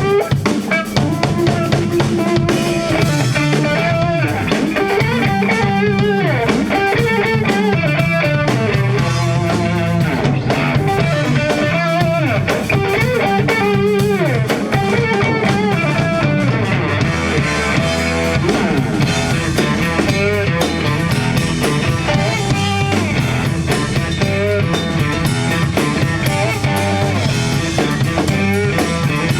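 A rock band playing an instrumental passage with no singing. A guitar plays a lead line with bends and vibrato over a drum kit and bass.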